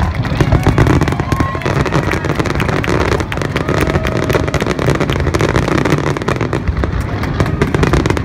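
Aerial firework shells bursting in quick succession: a dense run of crackles and pops over a continuous low rumble.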